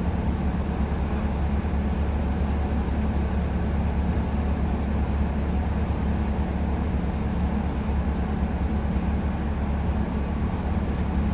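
Tram in motion, heard from inside the passenger car: a steady low rumble of the wheels and running gear on the track.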